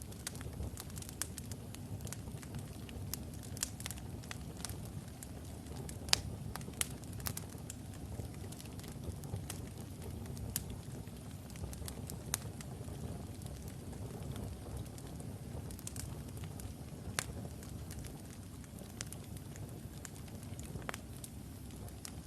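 Wood logs burning in a fireplace: a steady low rumble of flames with sharp crackles and pops scattered throughout, the loudest pops about six seconds in and again near seventeen seconds.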